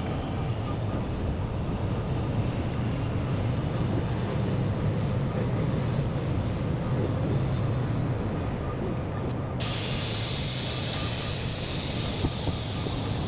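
Heavy diesel engine running with a steady low rumble. About two-thirds of the way through, a hiss suddenly joins in.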